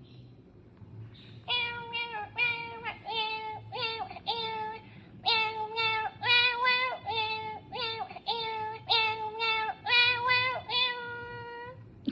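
ROPET robot pet singing a short tune in its cat voice: a run of synthesized meow-like notes, each held briefly at a steady pitch, starting about a second and a half in and stopping just before the end.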